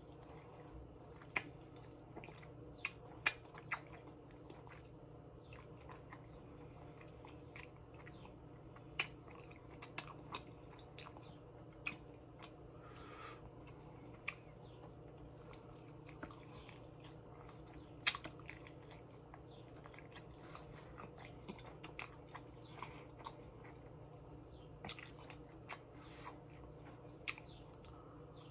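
Close-up chewing and biting of someone eating saucy baby back ribs: irregular wet mouth clicks and smacks, loudest about three seconds in and again near eighteen seconds, over a steady low hum.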